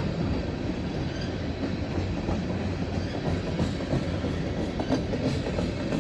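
Freight train cars rolling past: a steady rumble of wheels on the rails with scattered clicks and clanks.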